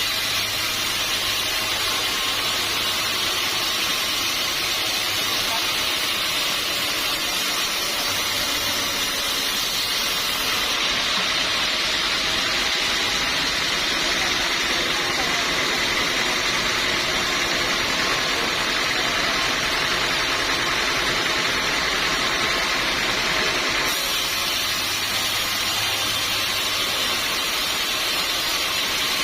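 Sawmill machinery running steadily: a continuous loud noise with a hiss. Its tone shifts slightly about ten seconds in and again a few seconds before the end.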